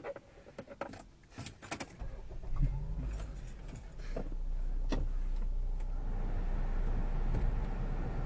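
Keys jangling and small clicks, then the Honda CR-V's engine starts about two seconds in and settles into a steady low running rumble. A broader rushing noise comes up after about six seconds.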